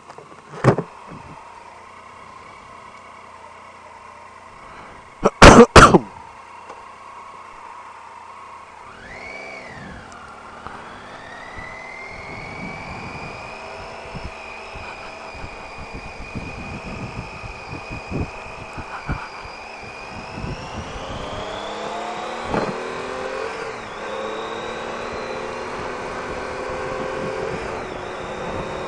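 Triumph Tiger 800 XRt's three-cylinder engine idling, then pulling away and accelerating up through the gears, its note rising in steps, with wind noise building as speed picks up. A sharp click comes about a second in, and a short cluster of loud knocks about five to six seconds in.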